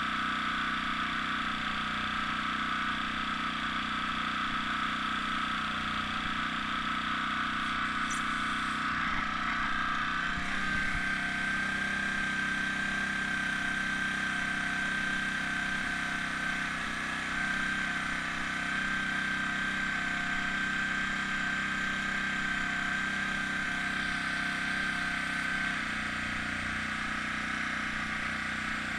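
Small air compressor motor running steadily while the airbrush is in use; its steady tone changes about ten seconds in.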